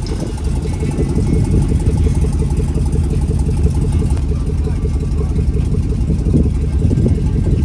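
A vehicle engine idling close by: a steady low rumble with a rapid, even pulse.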